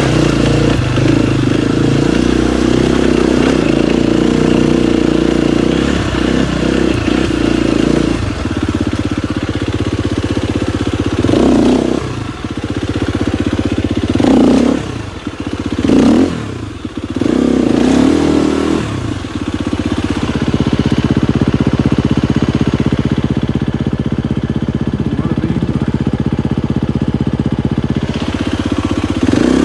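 KTM 250 XCF-W dirt bike's single-cylinder four-stroke engine running steadily on a trail ride, with a run of quick revs and drops in the middle.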